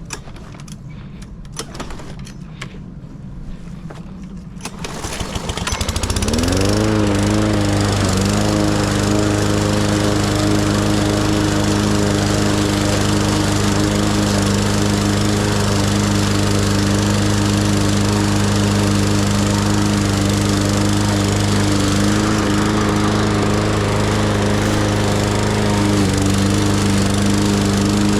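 A few light clicks and knocks, then about five seconds in a small petrol lawn mower engine starts, rises in pitch as it comes up to speed, and settles into a steady run.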